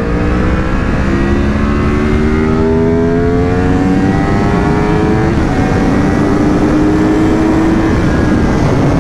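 Yamaha R1 crossplane inline-four pulling hard under acceleration, its pitch rising steadily, dropping on an upshift about five seconds in, then climbing again, with wind rush.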